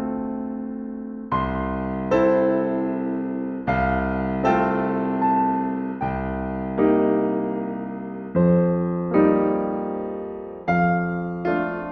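Slow, gentle piano music: chords struck about every one to two seconds, each ringing out and fading before the next.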